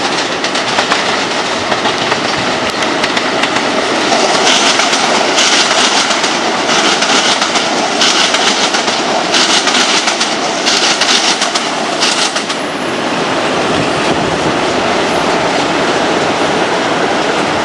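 Metro-North M7A electric multiple-unit commuter train running past on an elevated track, a steady rumble and clatter of wheels on rail. Between about four and twelve seconds in, a run of short, evenly spaced high-pitched wheel-on-rail bursts rides over it, about one a second.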